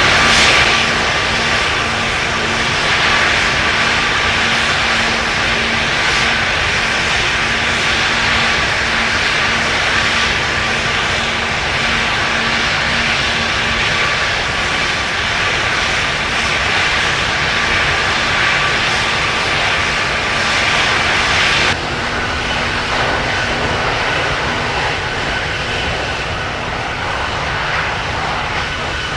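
Commercial airliner engine running steadily: a loud rushing noise with a steady whine over it. About three-quarters of the way through, the sound changes abruptly to a slightly different engine sound.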